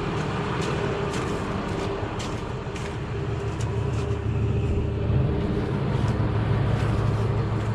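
Engine running steadily at a low, even speed, with a few faint ticks over it.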